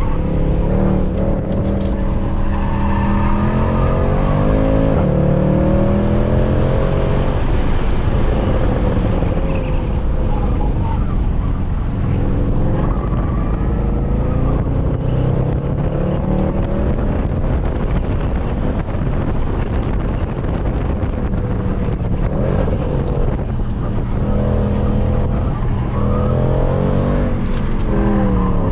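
Mercedes C63 AMG's 6.2-litre V8, with its secondary catalytic converters and resonators deleted, driven hard: the engine note climbs and drops back several times as it accelerates, shifts and lifts off.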